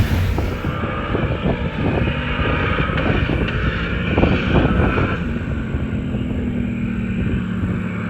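Turbocharged LS V8 race-car engine running loudly and unevenly, settling into a steadier low hum over the last few seconds.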